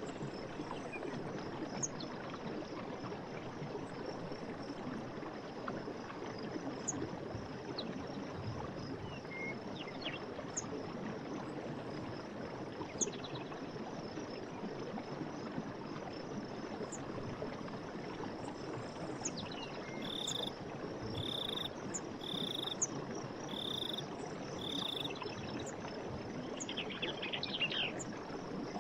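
Steady rush of running forest water with birds chirping briefly now and then. About two-thirds in, something calls five times at an even pace, and near the end there is a short rasping trill.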